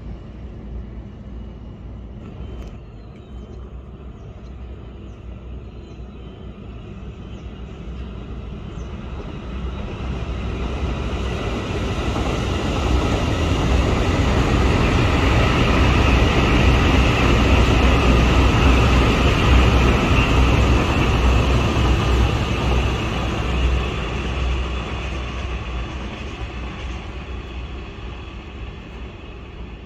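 Taiwan Railway electric multiple-unit train passing on an elevated line: the rumble of its wheels on the rails builds from about eight seconds in, is loudest in the middle, and fades away toward the end.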